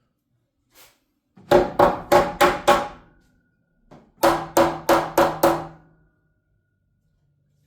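Wooden wall framing being nailed: two quick bursts of five sharp strikes each, about four a second, with the wood ringing after each strike.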